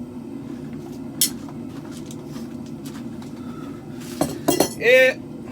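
Metal-on-metal clinks of forging tools and steel at the anvil: one sharp ringing clink about a second in, then a quick cluster of clanks near the end closing in a short ringing scrape. A steady low hum runs underneath.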